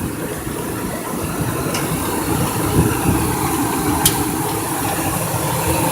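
Ford Expedition V8 idling steadily a few minutes after a cold start, which the owner thinks might have a slight vacuum leak. Two faint clicks come through about two and four seconds in.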